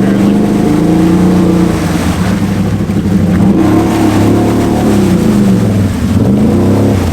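Can-Am Outlander ATV's V-twin engine revving through an aftermarket exhaust, holding steady at first and then rising and falling several times as the rider works the throttle to churn through a deep mud hole.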